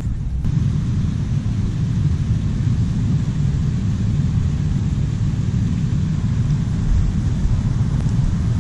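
A steady low rumble with a fainter hiss above it, unbroken throughout.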